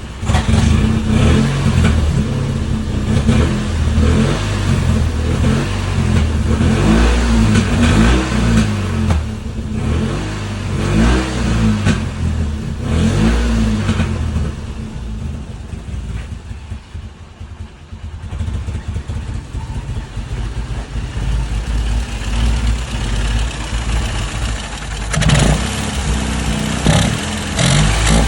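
Lada Oka's two-cylinder carburetted engine, revved up and down again and again, then sagging to a low, uneven idle about two-thirds of the way through as if about to stall, before being revved again. The idle speed is too low, and the engine sneezes and pops in the exhaust when the throttle is opened: a carburettor fault.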